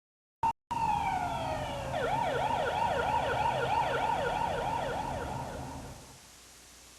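Emergency vehicle siren: a steady wail that drops in pitch, then a fast up-and-down yelp of about three cycles a second, over a low rumble, fading out about six seconds in.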